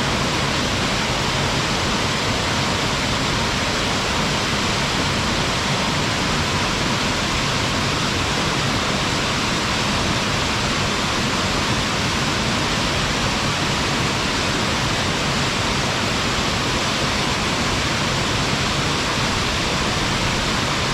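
Waterfall: water falling and splashing into a pool in a steady, unbroken rush, with most of its energy in the upper range.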